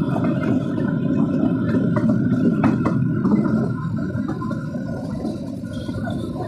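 Kalka–Shimla narrow-gauge toy train running, heard from inside the coach: a steady rumble of the wheels on the track, with a few sharp clicks near the middle and the rumble easing slightly after.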